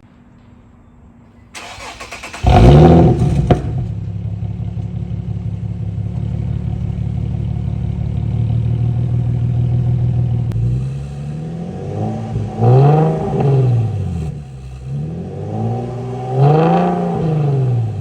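Infiniti G37xS 3.7-litre V6 with a Meistercraft GTHaus aftermarket exhaust starting up, flaring loudly as it catches about two seconds in, then settling to a steady idle. In the second half it is revved several times, each rev rising and falling in pitch.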